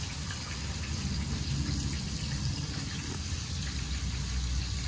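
Battered morel mushrooms frying in a pot of hot canola oil on an outdoor propane burner: a steady sizzle over the low rush of the burner flame.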